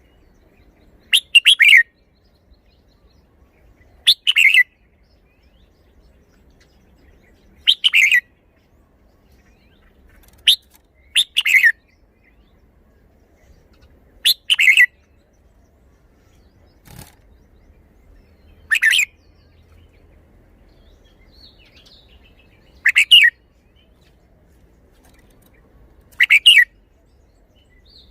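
Red-whiskered bulbul singing short, loud song phrases, one every three to four seconds, with a single faint knock about halfway through.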